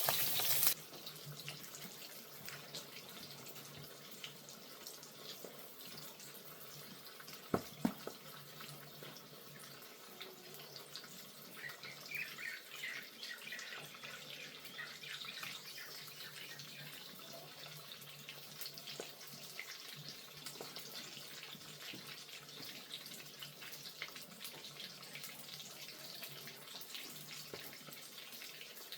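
Running water pouring stops less than a second in. After that, faint dripping and trickling goes on, broken by scattered small ticks and two sharp knocks close together.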